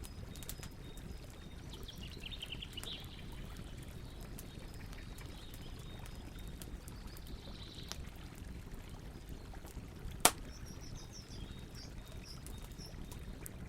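Campfire crackling, with scattered small pops and one loud sharp pop about ten seconds in, over a steady low rush of flowing water. Small birds chirp in short trills now and then.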